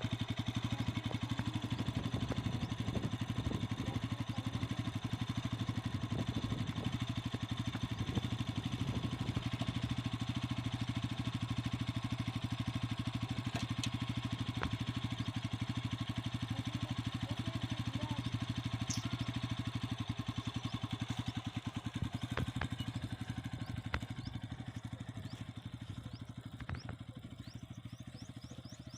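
Bajaj Pulsar 200cc single-cylinder four-stroke motorcycle engine running steadily at an even speed, with no revving up or down, fading slightly toward the end.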